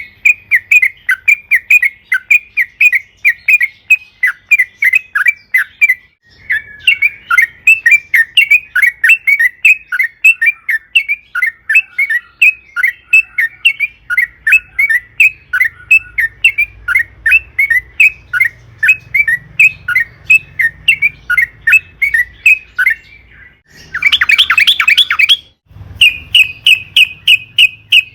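Yellow-vented bulbul (trucukan) singing a long run of quick chirping notes, about four or five a second, with a short pause about six seconds in. Near the end comes a brief harsh chattering burst, then a faster run of slightly higher notes.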